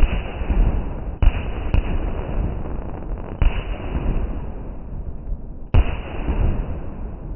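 Aerial firework shells bursting overhead: four loud booms about one and a half to two seconds apart, each followed by a long rolling rumble of echo.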